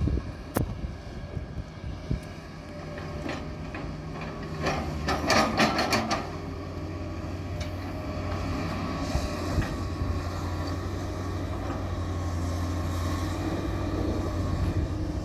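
Diesel engine of heavy machinery running steadily with a low hum, with a sharp metallic knock about half a second in and a burst of clanking and clattering around five seconds in.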